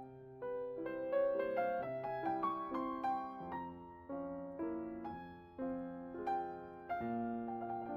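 Soft solo piano music: a slow, gentle melody over low bass notes, each note struck and left to fade.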